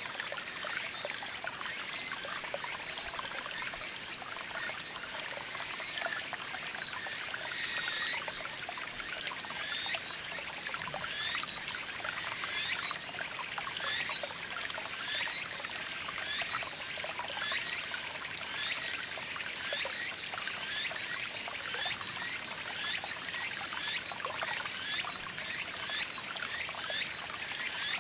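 Small mountain stream babbling and trickling steadily over stones. A steady high-pitched whine runs underneath, and from about eight seconds in a short chirping call repeats a little more than once a second.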